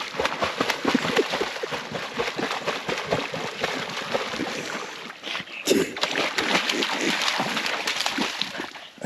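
Irregular splashing and sloshing in shallow water, with a louder burst of splashing about halfway through.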